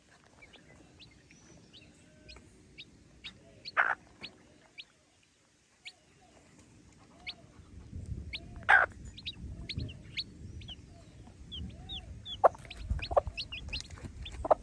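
Chickens: chicks giving many short, high peeps while a hen clucks now and then, with a few louder sharp calls. A low rumbling noise joins about halfway through.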